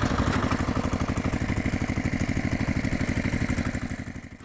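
An engine idling with a steady, rapid, even beat, fading away near the end.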